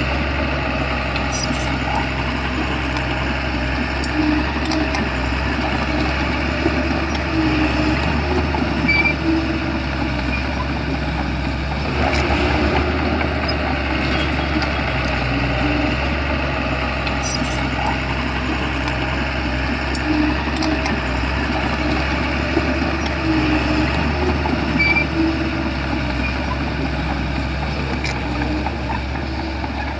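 Shantui bulldozer's diesel engine running steadily with a deep hum, with a couple of brief metallic clicks.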